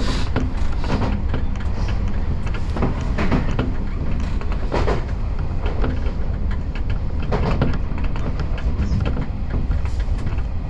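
Keio Inokashira Line electric commuter train running along the track: a steady low rumble of wheels on rail, with irregular clicks and knocks from the rails.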